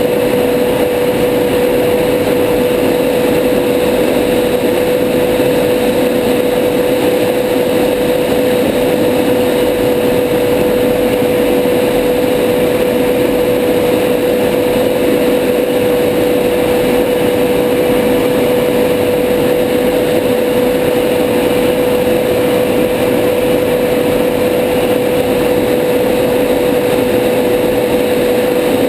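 Steady cockpit noise of a Tornado GR4 in fast low-level flight: an even rush of jet and air noise with a constant whine held on one pitch.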